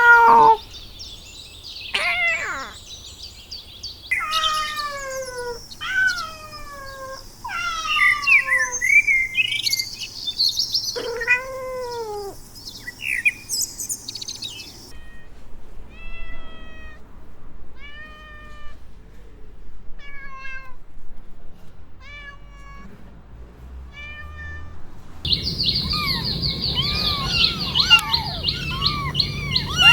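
Kittens meowing: a string of loud meows, each falling in pitch, then a run of tiny, high-pitched mews about one a second, then several kittens mewing over one another near the end.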